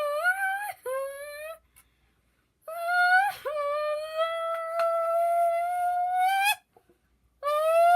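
A child's voice hummed into a squeezed drink can to imitate a Lamborghini engine: a high, buzzy tone. Two short bursts come in the first second and a half, then one long note from about three seconds in that slowly rises in pitch, like an engine revving.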